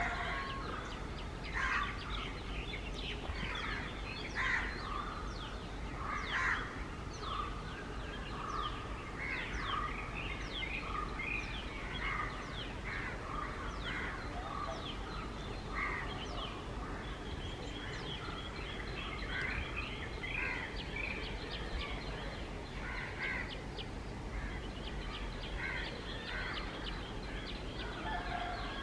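Birds chirping and calling throughout, with a few louder calls in the first seven seconds, over a steady low background noise.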